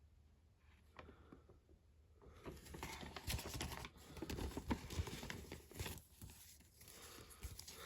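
Small Lego plastic pieces and paper being handled: a quick run of light clicks and rustling that starts about two seconds in and eases off near six seconds.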